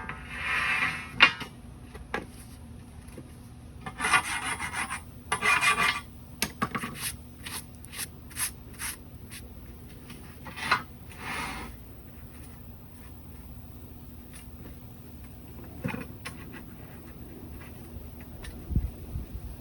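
Several short strokes of scraping or rasping on metal, each about a second long, with a quick run of light clicks and knocks in between, then a few scattered knocks.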